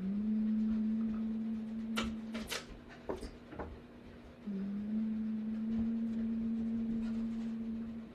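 A person humming two long, steady low notes, each sliding up a little into pitch as it starts, with short breath-like sounds in the gap between them.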